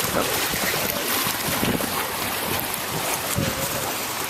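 Steady wind buffeting the microphone, with water washing against a boat's hull underneath.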